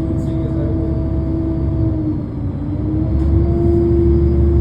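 Heavy engine running with a steady droning tone that dips in pitch about two seconds in, then rises again and holds as a low rumble grows louder.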